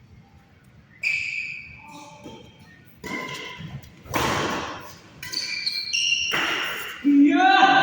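Badminton play in an echoing indoor hall: sharp racket hits and thuds, shoes squeaking on the court, and footwork scuffs. A loud voice comes in near the end.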